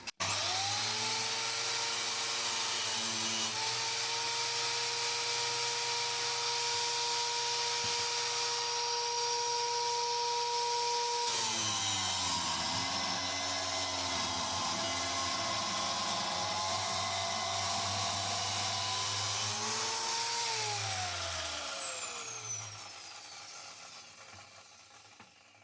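Electric metal-cutting power tool cutting steel to length. The motor spins up with a rising whine and runs at steady speed, then drops in pitch about 11 seconds in as it bites into the metal under load. Near the end it spins down in a long falling whine.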